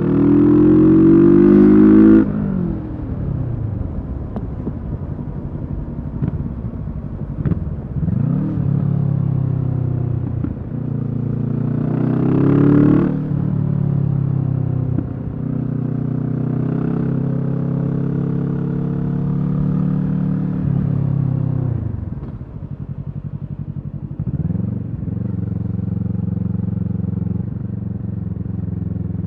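Kawasaki Z650's parallel-twin engine through a Leo Vince EVO carbon exhaust, under way: it accelerates hard with rising revs that drop off sharply about two seconds in, pulls up again around twelve seconds in, with several short falls and rises in revs between, and runs at steadier, lower revs near the end.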